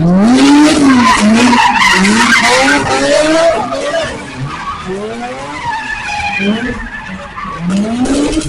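Car engine revving up and down again and again over loud screeching, skidding tyres, as a car slides through a street takeover.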